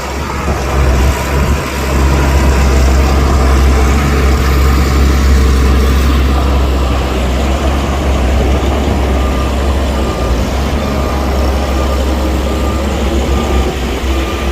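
Heavy diesel earthmoving machinery running steadily, with a strong low engine drone and a broad mechanical noise over it.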